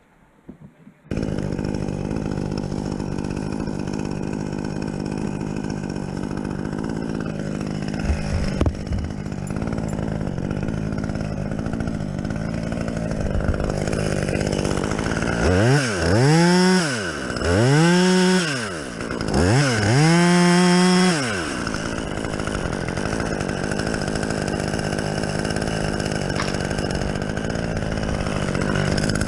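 Gas chainsaw running at a steady speed, revved up and back down three times in quick succession about halfway through, then settling back to its steady note.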